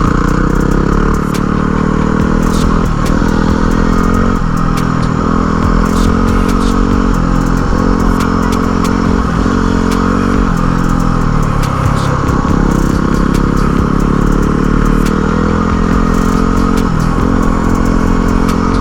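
Yamaha WR dual-sport motorcycle's single-cylinder engine running under way, its pitch climbing and dropping back every second or two with throttle and gear changes. Scattered sharp clicks run through it.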